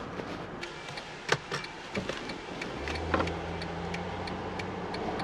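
Cabin sound of a Mercedes-Benz CLS 350d 4Matic's V6 diesel losing power on a hill, starved of fuel because fuel is not crossing over from the other saddle tank. Light clicks are scattered through it, and a low steady engine drone comes in about three seconds in.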